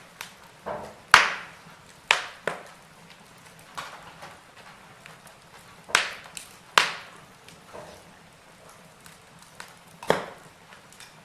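Wood fire burning in a fireplace: logs crackling with sharp, irregular pops and snaps over a faint hiss, the loudest pops about a second in and twice around six to seven seconds in.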